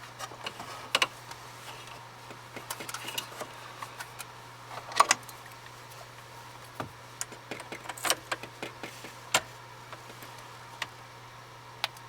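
Scattered plastic clicks and small knocks of wiring connectors and a car stereo deck being handled and plugged together, the loudest about five seconds in and again around eight seconds, over a steady low hum.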